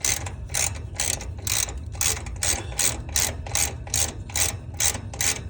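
Ratchet wrench clicking in repeated strokes, about two to three a second, as it turns an AC unit's refrigerant service valve closed so the freon cannot travel.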